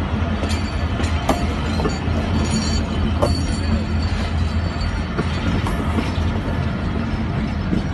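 Passenger coaches of a train rolling past at close range: a steady rumble of steel wheels on the rails, with scattered sharp clicks from the wheels and track.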